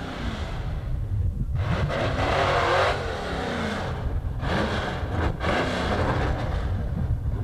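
A drag-racing street car's engine revved up and down several times while it idles and creeps forward into the staging beams, each rev rising and falling in pitch over a steady low rumble.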